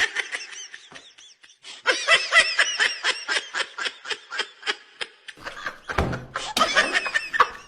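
A person snickering and giggling in a long run of quick, high-pitched bursts, a few a second, pausing and then starting again near the end.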